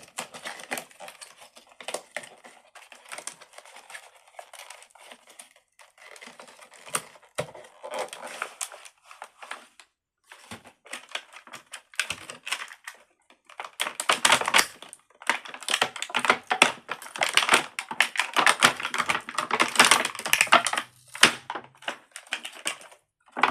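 Crinkly plastic packaging being handled and crumpled, a dense crackle of many small clicks that comes in spells with short pauses.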